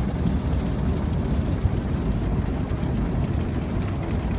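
Automatic car wash spraying water onto a car, heard from inside the cabin: a steady rushing and pattering over a low rumble.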